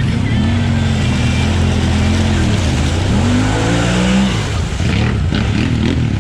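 Off-road side-by-side or ATV engine revving under load: it holds high revs, dips and climbs again about three seconds in, then drops off about four seconds in.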